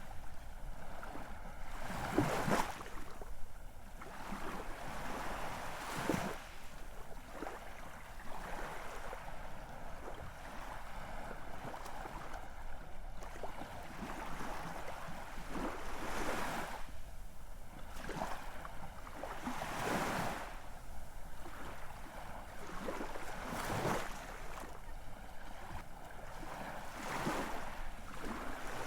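Ocean surf: waves breaking and washing up, a swell of louder crashing every few seconds over a steady rush of water.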